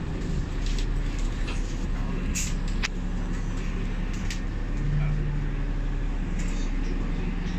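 Alexander Dennis Enviro500 MMC double-decker bus running on the road, heard from inside: a steady low engine rumble with a few sharp rattles or clicks of the bodywork.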